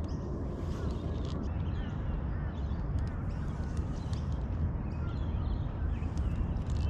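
Several birds calling and chirping now and then over a steady low rumble.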